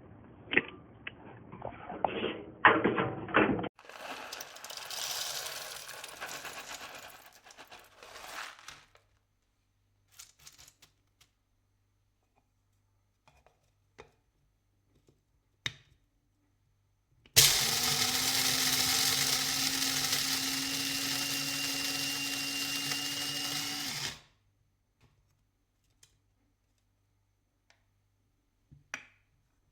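Amazon Basics electric blade coffee grinder running steadily for about seven seconds, then cutting off. Before it come clattering handling noises and a few seconds of rustling hiss.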